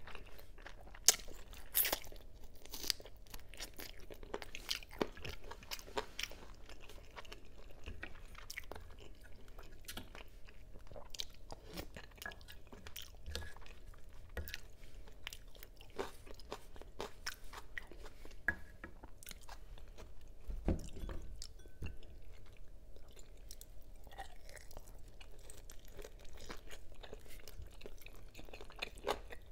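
Close-miked chewing and mouth sounds of someone eating braised pork ribs and chicken wings adobo, with many irregular wet smacks and sharp clicks.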